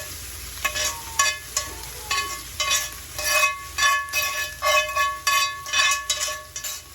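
Chicken sisig sizzling on a hot sisig plate while a metal spatula scrapes and stirs it, about two ringing strokes a second over the hiss of frying.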